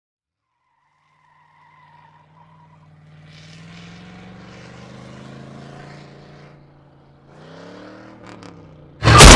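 A vehicle engine, a truck's by the evidence, comes in out of silence and runs steadily, rising in pitch as it revs about three quarters of the way in. Just before the end a sudden, very loud burst cuts in.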